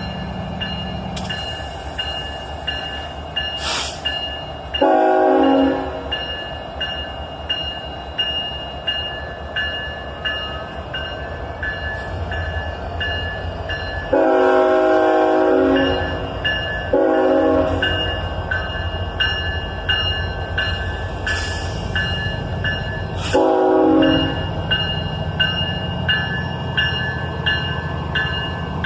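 Grade-crossing bell ringing steadily while a diesel freight locomotive sounds its horn four times: a short blast about five seconds in, a long one around the middle, then two short ones. Underneath, the low rumble of the locomotives straining to get a very heavy freight train moving.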